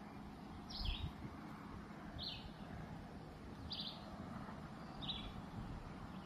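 A bird calling over and over, a short high two-part note about every second and a half, over steady low background noise. A soft low thump about a second in.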